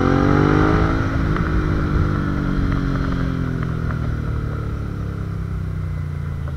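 Suzuki V-Strom 650 XT's V-twin engine running through a freshly fitted aftermarket exhaust while riding. The engine note climbs under acceleration, drops about a second in, then falls slowly as the bike eases off.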